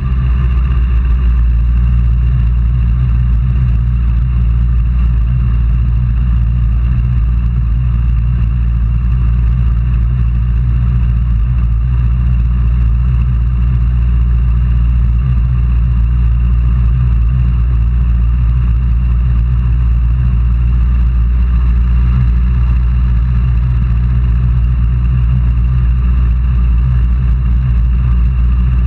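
A steady engine drone, holding one pitch without revving up or down.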